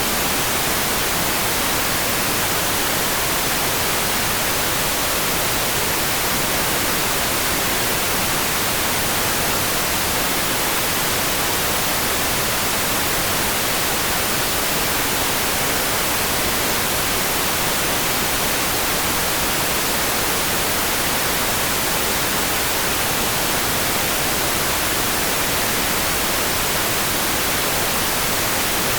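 A steady, dense rain-sound hiss: an even wash with no separate drops, no changes and no other events, strongest in the high end.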